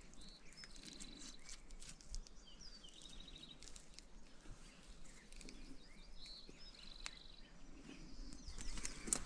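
Faint bird chirps, with two short trills, over a quiet background, with scattered light clicks and rustling that grow louder near the end.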